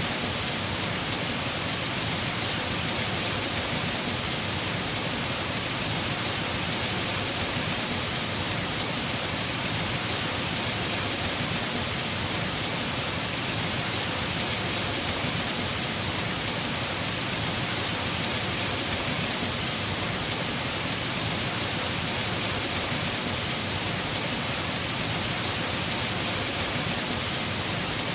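Heavy rain falling steadily on a house roof, a dense even hiss with no thunder or breaks.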